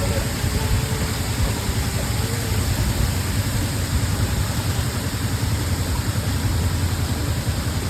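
Steady rushing noise with a heavy low rumble, unbroken throughout.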